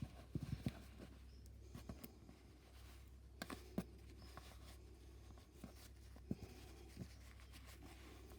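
Faint rustling with scattered soft clicks and taps as hands handle a bundle of wool yarn around a scrunched tissue.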